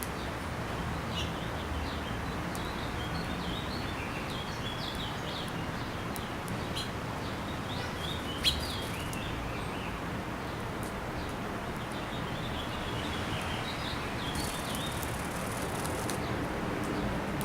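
Small birds chirping in many short calls over a steady background hiss, with one sharp click about halfway through.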